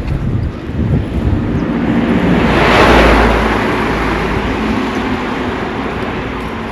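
A motor vehicle driving past on a paved road: its tyre and engine noise builds to a peak about three seconds in, then slowly fades away.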